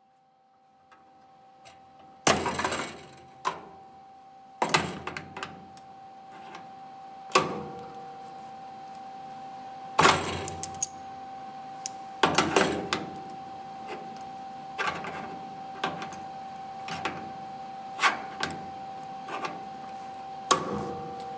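Irregular sharp metallic clanks and knocks of hand tools and metal parts being handled, with short rattles after some of them, over a steady hum.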